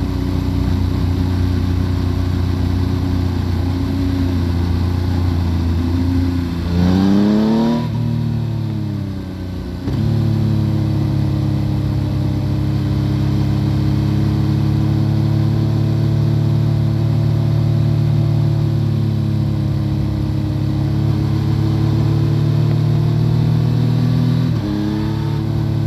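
Engine of a 2014 Yamaha FZ-09, an inline three-cylinder, running through an Akrapovic full exhaust while riding, heard from under the seat. It holds a steady note, revs up sharply at about seven seconds, falls away over the next few seconds, and settles to steady running again. Near the end there is a brief dip and step in pitch.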